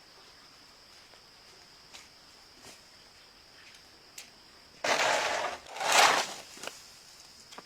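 Two loud bursts of noise, each about half a second long, about five and six seconds in, with a few faint ticks before them over a faint steady high-pitched hum.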